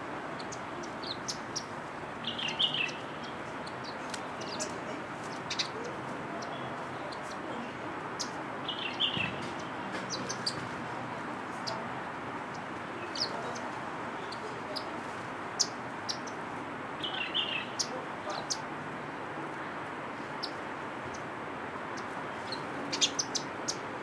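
Small birds chirping in short single calls spaced several seconds apart, with scattered sharp ticks and a cluster of chirps near the end, over steady background noise.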